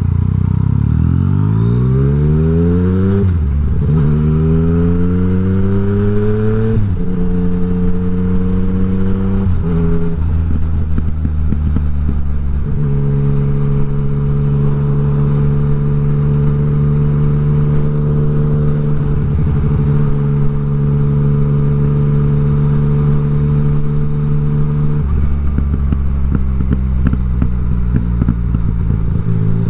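Yamaha MT-09's three-cylinder engine through an Akrapovič exhaust with the dB killer removed, loud and unmuffled. It accelerates hard, the pitch climbing twice with a sudden drop between like upshifts, then holds a steady pitch, and settles lower near the end.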